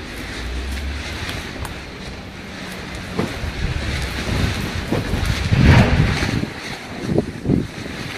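Strong gale wind buffeting the microphone, a steady rushing noise with louder low rumbling gusts past the middle.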